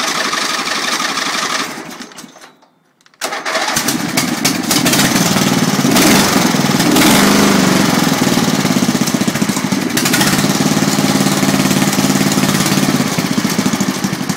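12 hp Briggs & Stratton engine on a Montgomery Ward garden tractor running cold through a homemade exhaust stack with a flapper. Its sound fades out about two seconds in, comes back abruptly about a second later, and rises to a louder, steady run.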